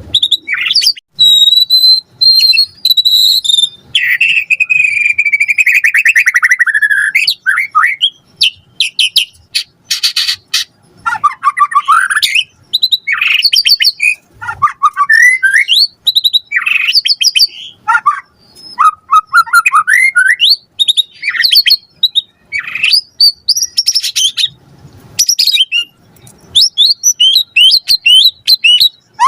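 White-rumped shama (murai batu) singing a loud, varied song of clear whistles, rising and falling glides, rapid trills and chattering notes, in phrases separated by short pauses. It is a shama in full song, its phrases packed with borrowed calls of other birds.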